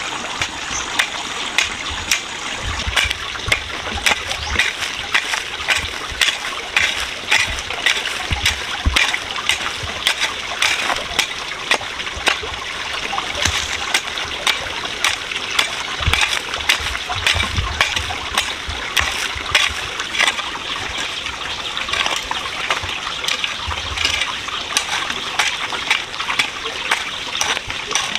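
Running water trickling and splashing, with many sharp taps or knocks throughout.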